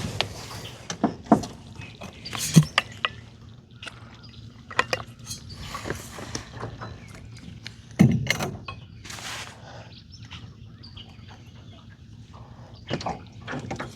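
Irregular clicks and knocks of gear being handled in a small fishing boat, the loudest about 8 seconds in, over a low steady hum.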